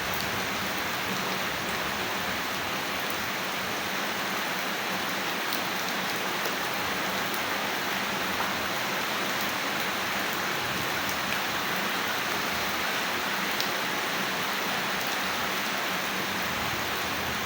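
Steady rain falling, an even hiss with a few faint individual drop ticks scattered through it.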